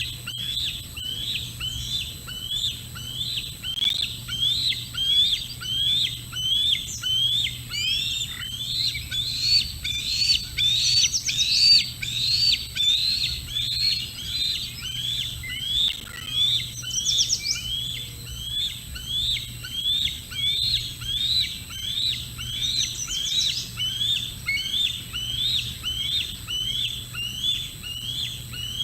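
A bird calling over and over in short, rising notes, about one and a half calls a second without a break, with other small birds chirping higher now and then.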